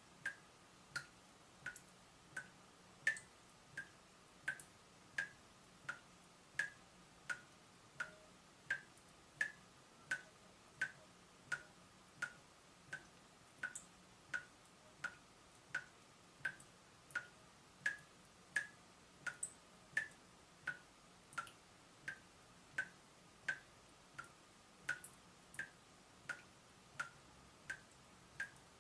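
Leaking tap dripping steadily, each drop landing with a short plink, about three drops every two seconds at a very even pace.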